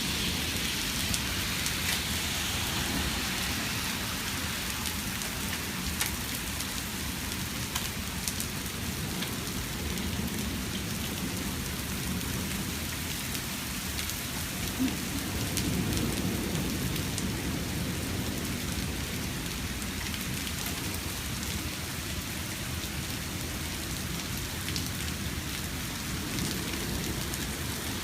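Small hail falling steadily with rain: a constant hiss of stones and water hitting surfaces, with scattered sharp ticks of single hailstones striking.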